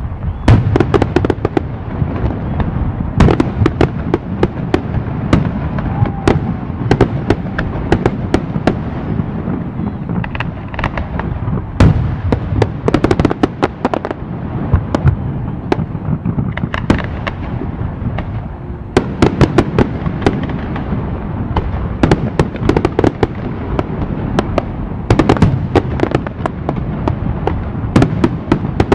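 Ground-launched fireworks firing in rapid succession: a continuous run of bangs and sharp crackles over a steady rumble.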